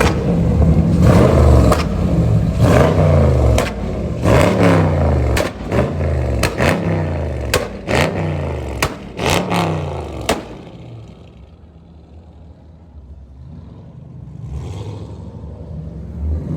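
Dodge Charger Scat Pack's 392 HEMI V8 revved in repeated quick blips, with sharp exhaust pops and cracks between them, then dropping back to a quieter idle after about ten seconds.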